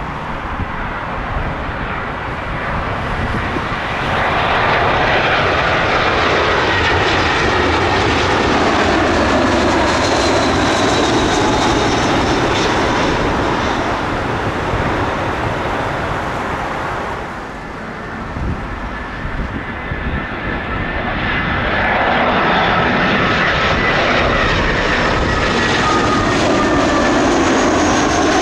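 Jet airliner engines passing, two in a row: the first swells a few seconds in and fades, the second builds again near the end, each with a high whine over the rumble.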